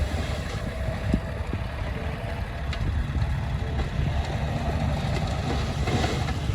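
Diesel engine of a Komatsu D20P bulldozer running steadily, with a few light clanks.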